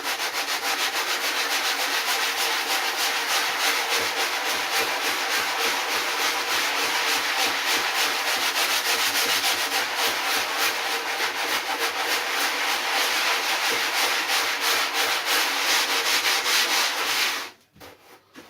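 Sanding pad running steadily over the cured foam of a surfboard repair, with a faint steady motor hum and a fast, even rhythm typical of a power sander. It stops abruptly a second before the end.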